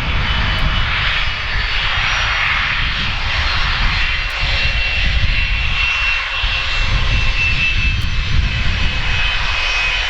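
Aircraft engines running as an airliner taxis: a steady, loud rush with a low rumble and a thin high whine.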